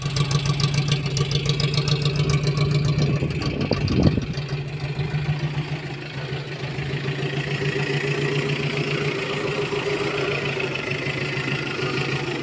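UAZ's carburetted petrol engine idling steadily, with a short louder swell about four seconds in. It runs evenly now that the ignition condenser has been replaced, the fault behind its earlier sneezing and backfiring.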